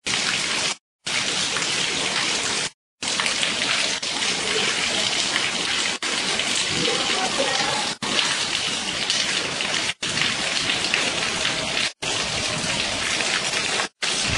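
Steady rain falling, a dense even hiss broken by several brief silent gaps every couple of seconds.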